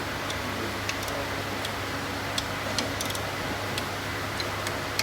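Light, irregular clicks and taps from hand work on a boat engine being reassembled, about ten in a few seconds, over a steady low hum.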